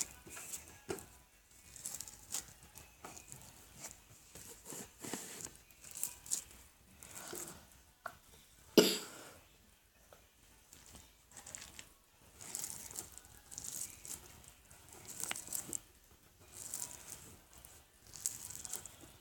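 Hands working slime close to the microphone: short, sticky squishing and crackling sounds, repeated irregularly, with one much louder pop about halfway through.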